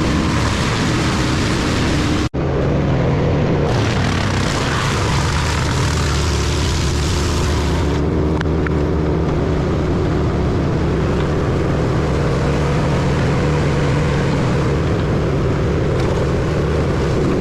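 Industrial wood chipper running steadily at full engine speed, the engine hum under a dense chipping noise. The sound drops out for an instant about two seconds in.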